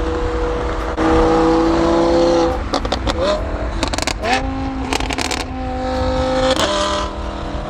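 A performance car's engine and exhaust accelerating through the gears. The pitch holds, then falls at each shift and climbs again, with short crackles from the exhaust around the shifts.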